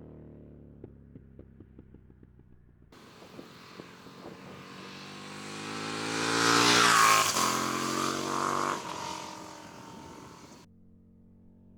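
2019 KTM 1290 Super Duke R's 1301 cc V-twin, through an Austin Racing V3 de-cat exhaust with no dB killer, passing by at about 80 mph. A string of sharp crackles comes in the first few seconds. The engine grows louder to a peak about seven seconds in, drops in pitch as it goes past, and fades away.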